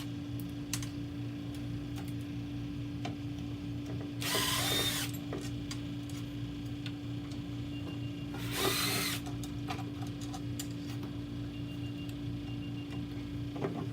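Power driver spinning out Phillips screws in two short bursts of about a second each, one about four seconds in and one near the middle, over a steady low electrical hum.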